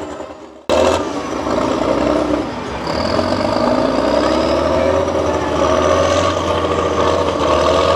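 Competition trial truck's engine running under load, its pitch climbing slowly. It starts abruptly under a second in.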